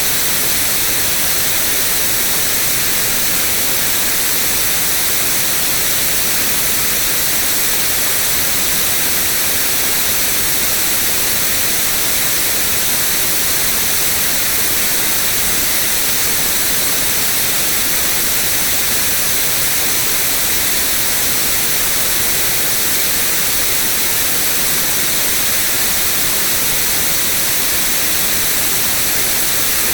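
Steady white noise: an even, bright hiss with no change or interruption.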